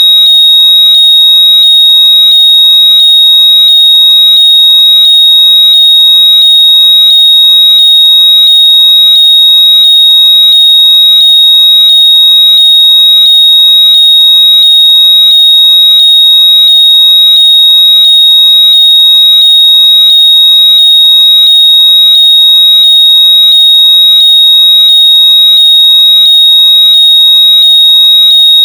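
Very loud, steady high-pitched electronic tone, a synthetic earbud-locator noise, with fainter lower chirps rising in pitch about three times every two seconds under it.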